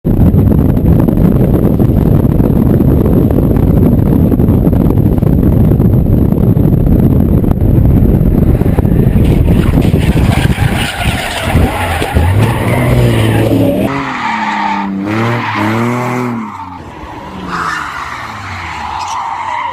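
A drifting car: a loud, dense rush of engine and tyre noise for about the first ten seconds, then the engine revs rising and falling over and over in the second half.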